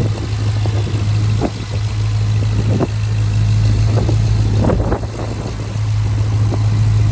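2020 Dodge Charger Scat Pack's 392 (6.4-litre) HEMI V8 idling with a steady low hum.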